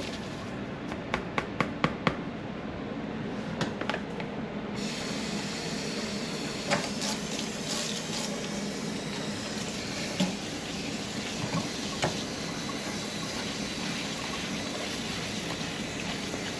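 Tap water running into a pot of rice being rinsed, coming on about five seconds in and running steadily; before it, a few light clicks and knocks.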